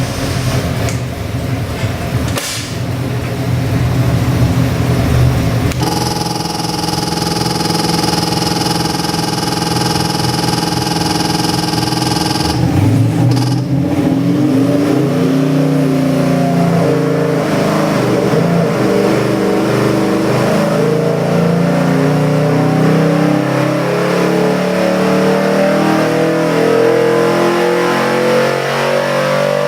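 Ford 347 cubic-inch small-block stroker V8 running: a low rumble at first, then held at a steady high rev for about seven seconds, then revving up in a long steady climb that lasts to the end.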